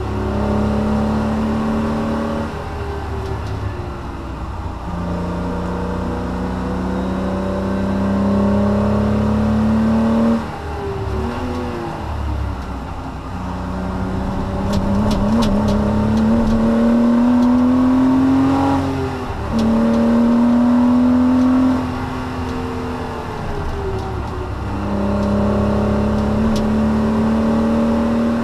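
Porsche Cayman S (987.2) 3.4-litre flat-six heard from inside the cabin under hard acceleration, its note climbing through the revs and dropping suddenly at each upshift or lift. About ten seconds in the engine falls away under braking and downshifts, then pulls up through the gears again.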